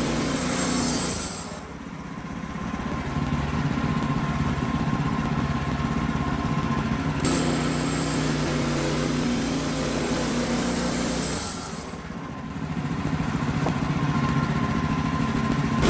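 Wood-Mizer LX55 band sawmill running steadily while it saws a poplar log. The sound dips quieter twice: about a second and a half in, and again near twelve seconds.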